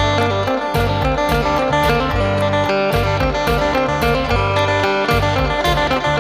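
Electric phin, a Thai Isan plucked lute, playing a quick melody of plucked notes, with a moving bass line and a steady beat underneath.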